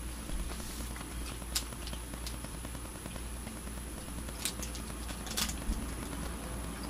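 Someone chewing a soft, caramel-like Polish toffee (Toffi Kubanka), with a few faint, sharp mouth clicks and crackles over low room noise.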